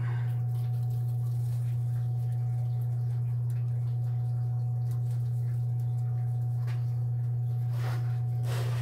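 Steady low hum that does not change, with a few faint rustles near the end.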